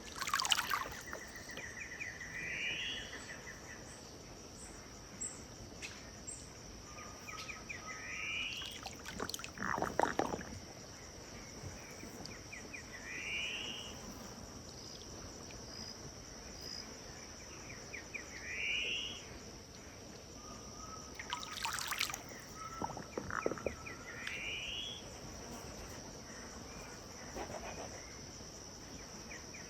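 Riverside dusk ambience: a bird repeats a short rising call about every five or six seconds over a steady high-pitched drone of crickets. A few louder, sharper sounds cut in near the start, about ten seconds in and a little past twenty seconds.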